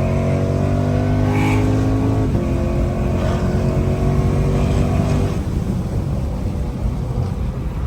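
Lexus RC F's 5.0-litre V8 with full bolt-ons and tune, pulling under acceleration: its pitch climbs slowly, breaks briefly about two seconds in, then holds steady until the engine note drops away about five seconds in, leaving road rumble.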